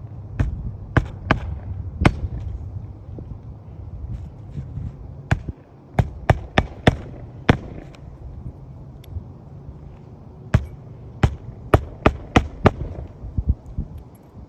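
Hammer striking in runs of sharp blows, about two to three a second, with pauses between runs, during roof shingle repair work.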